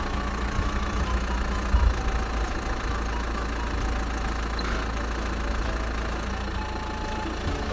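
An engine or motor running steadily with a low rumble.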